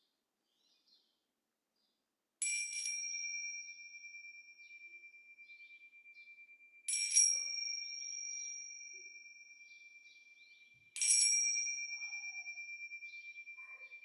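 A small meditation bell struck three times, about four seconds apart, marking the start of a sound meditation. Each strike leaves a clear, high ringing tone that fades slowly.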